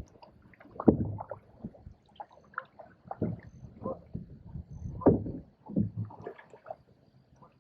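Canoe being paddled: irregular paddle strokes splashing in the water and knocking against the hull, roughly one a second.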